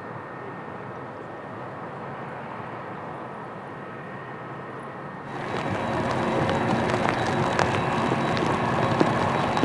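Steady jet airliner engine noise with a faint high whine. About five seconds in the sound cuts abruptly to a louder, fuller rush with scattered sharp clicks.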